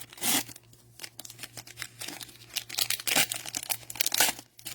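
Foil wrapper of a retail trading card pack being torn open and crinkled, in a series of sharp crackling bursts, loudest just after the start and again about three to four seconds in, over a faint low hum.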